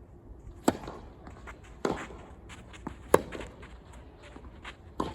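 Tennis ball being hit by rackets and bouncing on the court. Sharp, loud pops come about every second and a quarter, with fainter knocks in between.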